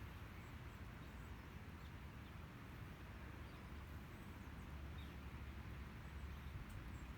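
Quiet outdoor ambience: a low steady rumble with a few faint, short high chirps from small birds scattered through it.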